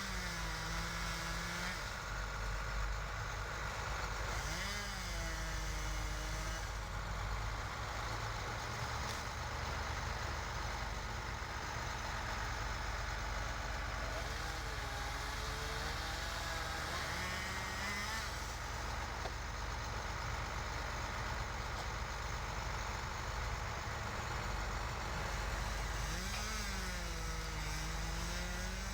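A heavy engine runs steadily at idle. A few times a pitched sound briefly rises and falls over it.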